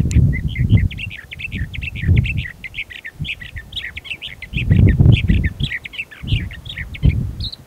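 Sage thrasher singing: a long, unbroken run of rapid warbled phrases that stops about seven seconds in. Repeated low rumbling noise comes and goes underneath and is at times louder than the song.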